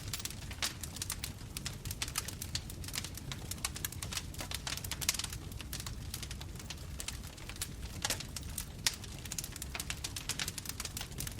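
Bonfire crackling: a dense, irregular run of sharp pops and snaps over a low, steady rumble of the flames.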